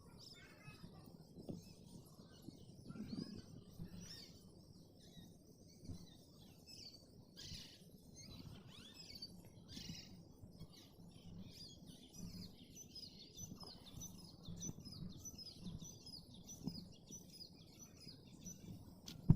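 Faint birdsong from several small birds chirping, with a long run of quick repeated high notes through the second half, over a low outdoor rumble. A single sharp click comes right at the end.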